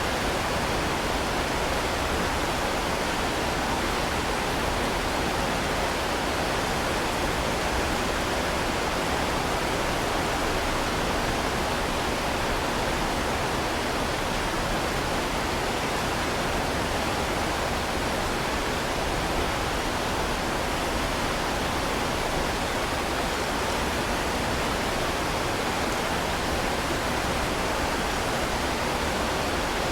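Heavy rain falling as a steady, even hiss, with no single drops or other sounds standing out.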